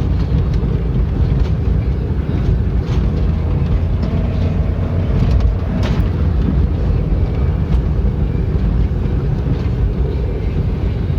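Jeep driving through snow: a steady, loud low rumble of engine and road noise, with a few scattered sharp clicks at irregular moments.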